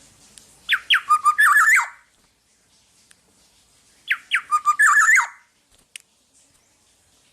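Black-naped oriole singing: two loud phrases a few seconds apart, each a couple of quick downward-sliding whistles followed by a rapid run of fluty notes mixed with harsher ones.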